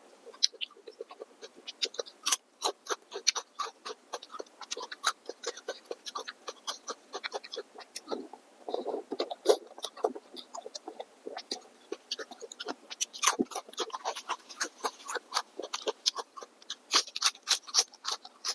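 Close-miked eating sounds: rapid, irregular wet chewing and mouth clicks and smacks, with a denser stretch of chewing about halfway through.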